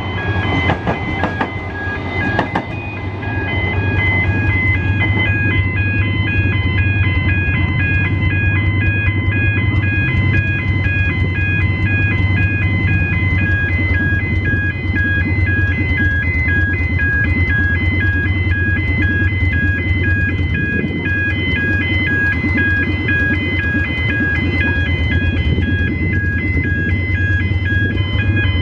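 Level crossing warning bells ringing, an electronic ding repeated at an even rate, over a steady low hum. Knocking clatter sounds in the first few seconds.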